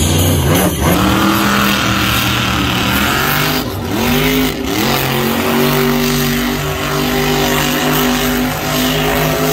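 A loud engine revving: its pitch climbs shortly after the start, drops and climbs again about four seconds in, then holds steady at high revs.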